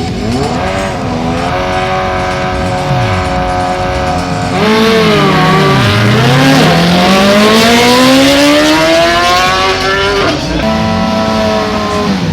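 Drag-race vehicle engine revving, then running much louder and climbing steadily in pitch for about four seconds under hard acceleration before the pitch drops off suddenly.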